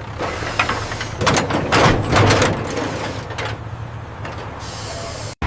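Truck engine running low and steady, with several clacks and rattles of machinery in the first few seconds and a hiss of air late on.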